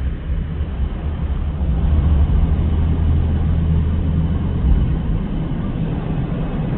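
Strong wind gusting over the microphone, a loud uneven low rumble that swells for a few seconds in the middle.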